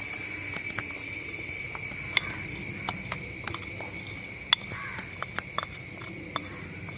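Steady, unbroken high insect trill, like crickets, behind scattered light clicks and taps of a spoon against a mixing bowl.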